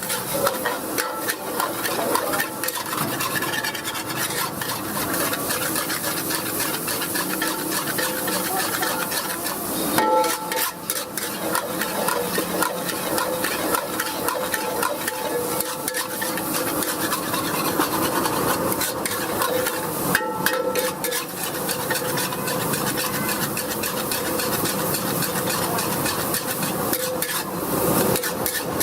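Stir-frying in a wok: a metal spatula scrapes and clatters against the pan over sizzling food, in a continuous run of quick strokes.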